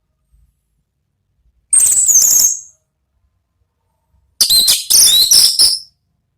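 Orange-headed thrush singing: two short phrases of high, rapid whistled notes, the first about two seconds in and the second a little after four seconds, each lasting about a second.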